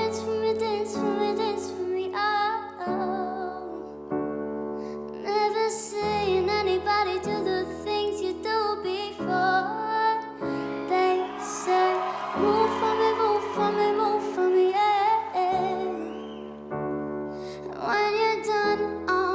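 A female voice singing a slow melody over sustained piano chords. The held notes waver with vibrato.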